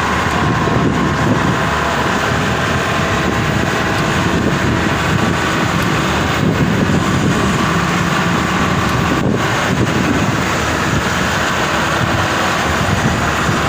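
Maxxi Bimo 102 rice combine harvester's engine running steadily and loudly, with wind buffeting the microphone.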